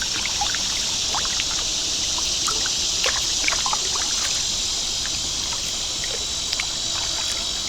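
Kayak paddling on a creek, with water trickling and dripping off the paddle in small scattered splashes and ticks. Behind it runs a steady high-pitched insect chorus.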